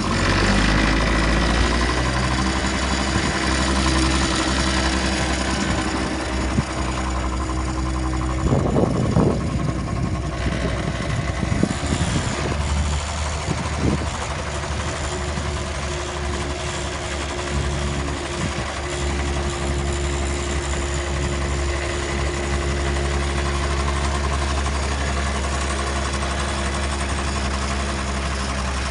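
Small petrol engine of a student-built eco-marathon car running steadily with an even low drone, and a couple of brief clattering knocks partway through.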